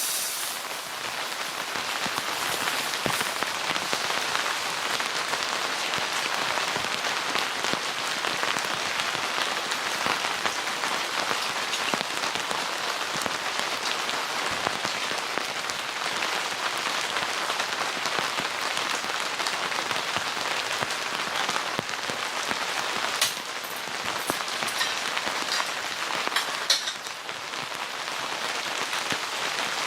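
Steady rain falling, an even hiss of drops throughout, with two sharp knocks late on.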